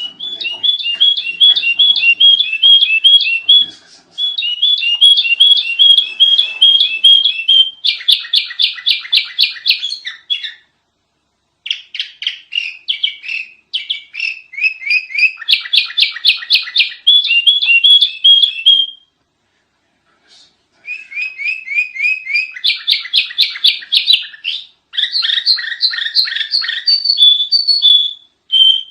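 Sooty-headed bulbul (kutilang) chirping loudly in fast runs of repeated notes, about four a second, each run lasting a few seconds with brief pauses between.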